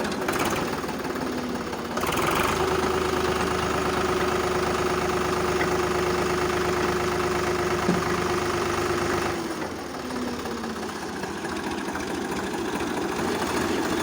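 Swaraj 735 FE tractor's diesel engine running steadily. A steady whine comes in about two seconds in and drops away about nine and a half seconds in, leaving the engine running a little quieter.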